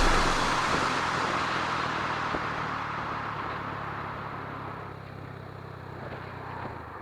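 Motor vehicle noise fading steadily away over several seconds, above a steady low engine hum.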